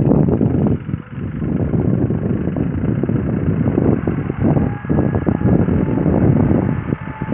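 John Deere 5075 tractor's diesel engine running steadily.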